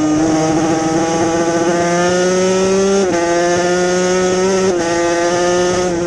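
Yamaha TZ250 two-stroke racing motorcycle engine running hard at high revs, its pitch climbing slowly, with a brief dip about three seconds in and another near five seconds.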